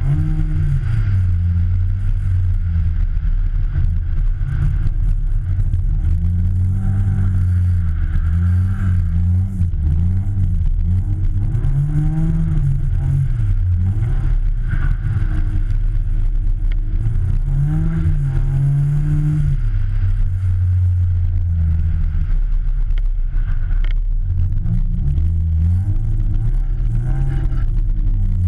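Rally car's engine running hard, its pitch climbing and falling again and again as it accelerates and lifts off, with a steady rumble of road and wind noise, heard from a camera mounted on the outside of the car.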